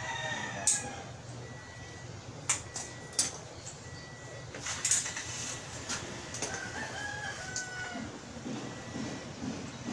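A rooster crowing twice, once at the start and again about two-thirds of the way through, with several sharp clicks in between.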